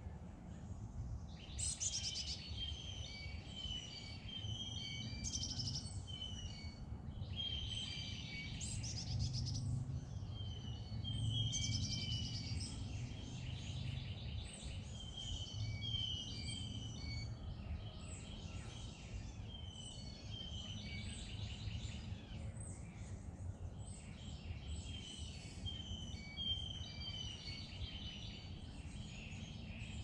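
Several songbirds singing and chirping at once in a dense, overlapping chorus of short high notes and trills, over a steady low rumble.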